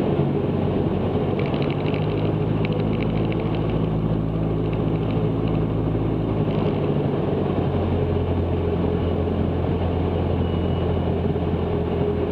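Cessna 162 Skycatcher's Continental O-200 four-cylinder engine and propeller droning steadily, heard inside the cabin; the engine note shifts about seven seconds in.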